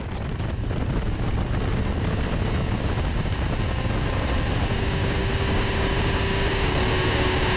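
Harley-Davidson Street Glide's V-twin engine running under way, with wind rushing over the microphone; the sound swells up over the first second, then holds steady.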